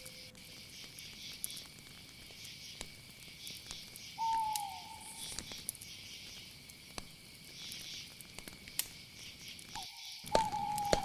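Night chorus of crickets and other insects: a steady high trill with a pulsing, shimmering hiss above it. Two short whistled calls come over it, one about four seconds in that drops in pitch and a longer one near the end, with scattered faint clicks.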